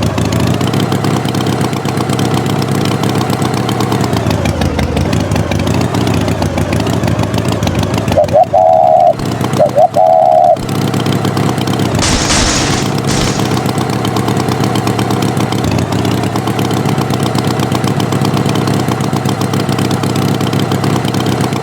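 Tractor engine running steadily, its pitch dipping and recovering about four seconds in. Two short higher tones sound near the middle, followed by a brief hiss.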